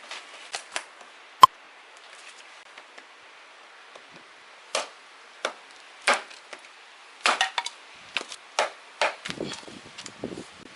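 Firewood being broken up for a campfire: irregular sharp wooden cracks and knocks. There is one very sharp click about a second and a half in, then a quick run of cracks through the second half.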